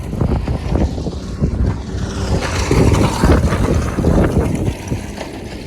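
Wind buffeting the microphone outdoors on open sea ice, a loud, uneven low rumble and flutter.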